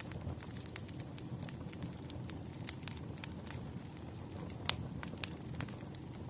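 Burning firewood crackling: irregular sharp pops and snaps over a low, steady rumble of the fire, with one louder pop a little past the middle.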